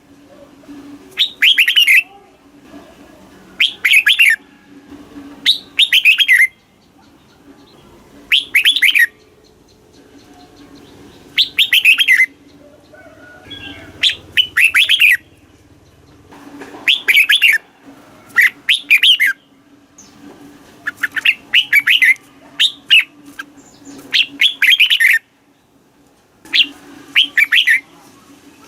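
Red-whiskered bulbul singing: short, bright, warbling phrases repeated every second or two, with a faint steady low hum behind.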